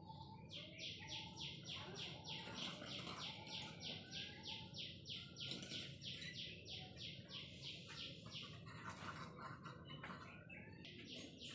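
A bird chirping one short, high note over and over, about four times a second, for some eight seconds, then starting again briefly near the end.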